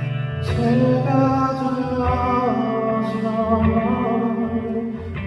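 A male singer sings a slow ballad live, holding long notes over instrumental accompaniment.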